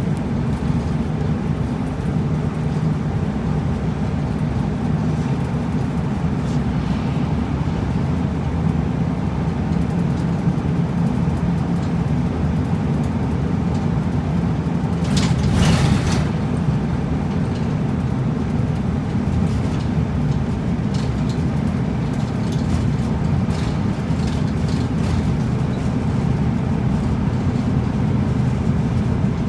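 Route bus running on the road, heard from inside the cabin: a steady low engine drone with road noise. A short burst of hiss-like noise comes about halfway through.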